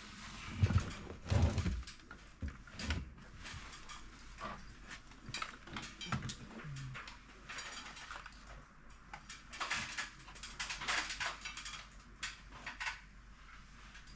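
Irregular clicks, knocks and rattles of a gas furnace's metal panels and tools being handled as the unit is reassembled, with a few heavier thumps in the first few seconds.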